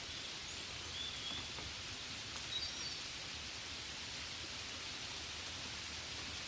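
Steady, gentle rain falling, an even hiss of drops, with a few faint high bird chirps in the first half.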